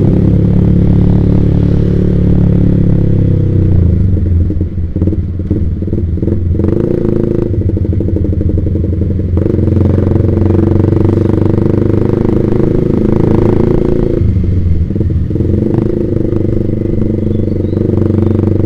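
Yamaha Vixion single-cylinder motorcycle engine running through an aftermarket Proliner TR1 R racing exhaust while riding. The engine note drops about four seconds in, turns uneven and crackly for a few seconds, then settles back to a steady run, with a brief dip in the note near the middle.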